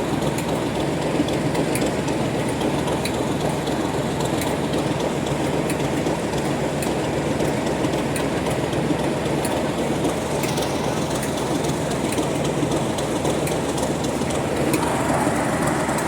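Heritage diesel train running along the line: a steady rumble of wheels on rail with faint repeated clicks, shifting slightly in tone near the end.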